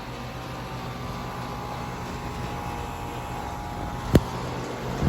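Carrier Performance 16 central air conditioner outdoor unit running steadily: the compressor's hum, which the owner believes is a Copeland scroll, under the condenser fan's even noise. A single sharp click sounds about four seconds in.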